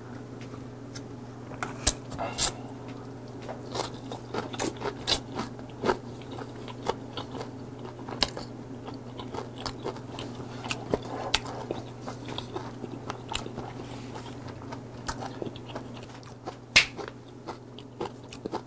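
A man chewing a mouthful of fermented skate wrapped with pork head meat, kimchi and raw oyster, close to the microphone. Many sharp clicks and crunches run through the chewing, over a steady low hum.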